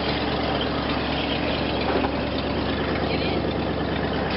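1988 Ford F-150's 302 (5.0 L) V8 idling steadily.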